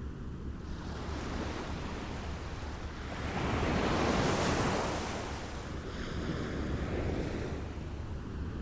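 Small waves lapping on a shore. One wave washes in louder and then draws back about halfway through, and a smaller one follows, over a steady low rumble.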